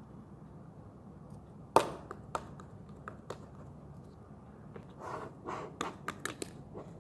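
Scattered sharp clicks and light taps in a small room: one loud click about two seconds in, a few softer ones after it, then a quick run of taps near the end.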